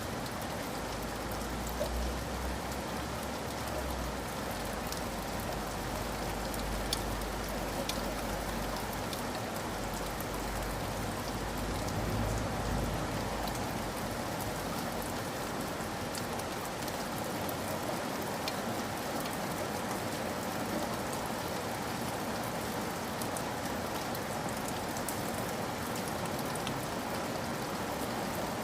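Steady rain falling, an even hiss with scattered sharp ticks of individual drops. A low rumble sits underneath for about the first half, then drops away.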